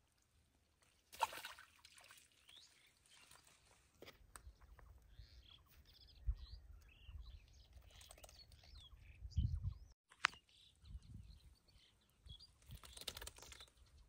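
Small birds chirping, faint, in short repeated calls, with a few low thumps and a brief rustle about a second in.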